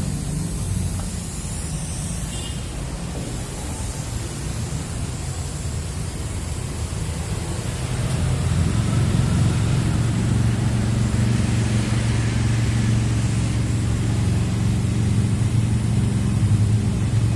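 A car engine running steadily with a low hum and a hiss of noise over it; it grows louder about eight seconds in.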